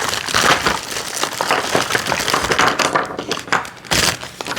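Plastic packaging crinkling and crackling as parts are handled and unwrapped, with an irregular run of rustles and small knocks.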